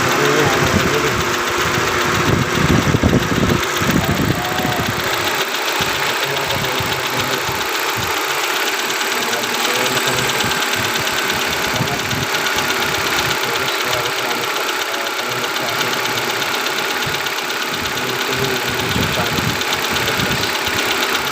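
2019 Hyundai Accent sedan's engine idling steadily, with a louder, heavier stretch in the first few seconds. It is the noisy, misfiring engine being diagnosed, one of whose cylinders tested low on compression.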